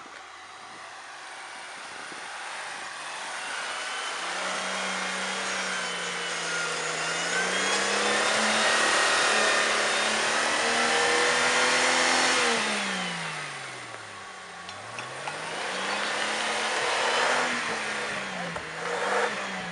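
Off-road vehicle engine revving hard as the vehicle labours through soft, boggy ground. The pitch climbs and holds high, drops sharply about two-thirds of the way through, then climbs and wavers again near the end.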